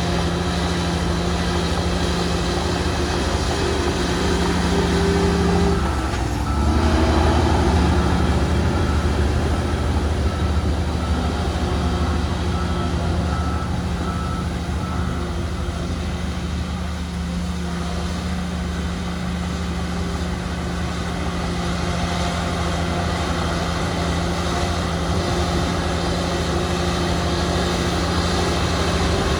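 Heavy diesel earthmoving machinery running steadily. Its engine note shifts and grows louder about six seconds in. A reversing alarm beeps faintly in the middle.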